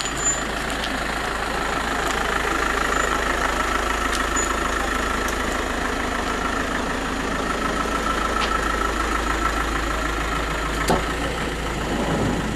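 Vehicle engine idling steadily, with a single sharp knock about eleven seconds in.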